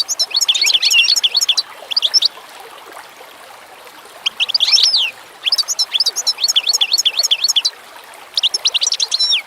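Songbirds singing in phrases of rapid, high chirps, about four phrases with short pauses between, over a steady trickle of running water.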